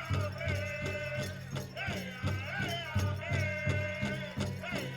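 Powwow drum group singing over a steady, evenly spaced drumbeat, the voices rising and falling in chant, with small bells jingling along.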